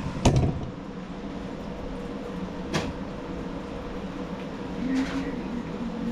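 Workshop handling sounds: a thud just after the start and a sharp click about three seconds in, over a steady hum.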